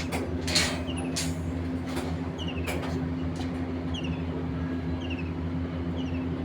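A motor or engine running steadily with a low hum, with scattered clicks and knocks over it.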